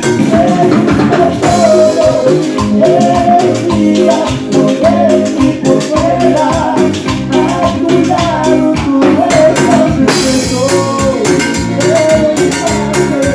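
Latin dance band playing a salsa-style tune with a steady beat: shaker and drum percussion under bass and a wavering melodic lead.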